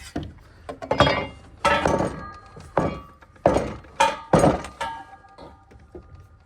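Metal parts clanking and knocking about nine times in irregular succession, several hits leaving a short metallic ring, dying down near the end.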